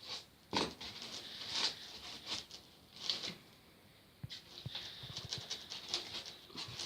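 Scattered light scrapes, rubs and soft taps of polystyrene foam panels being handled and pressed together into place.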